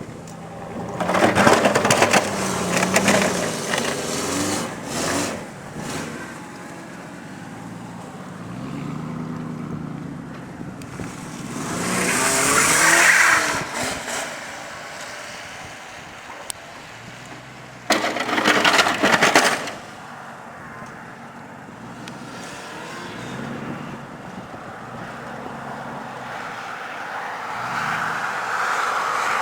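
Chevy Z71 4x4 pickup truck's engine running and revving, with three loud surges about two, thirteen and nineteen seconds in and steadier running between.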